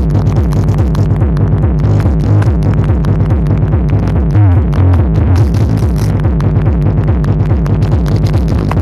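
Loud electronic dance music with heavy, fast-pulsing bass, played through a truck-mounted 'horeg' sound system, with a falling sweep about four and a half seconds in.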